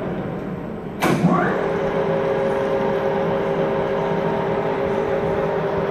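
Cincinnati Bickford Super Service drill press spindle drive running with a steady whine that sags slightly. About a second in there is a sharp clunk, a quick rising whine, and then steady running again at a lower pitch, as the spindle is switched over to reverse for tapping.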